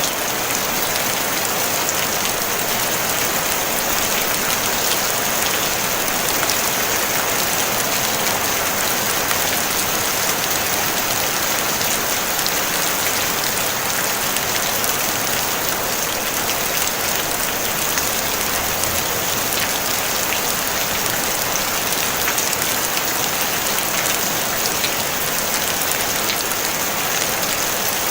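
Steady rain pattering on a tin roof, a dense even hiss of many small drop ticks, with no thunder.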